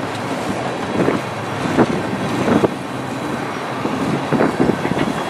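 Freight train covered hopper cars rolling past, a steady rumble of steel wheels on rail broken by repeated clacks as wheel sets pass, with wind buffeting the microphone.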